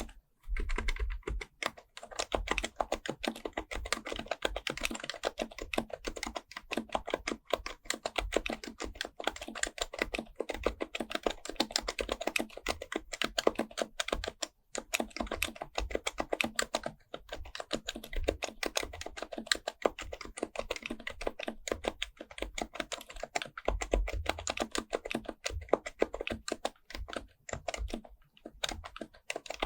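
Fast, steady typing on an HHKB Professional Type-S keyboard, its silenced Topre keys giving a dense run of soft clacks, with brief pauses about half a second in and again near the middle.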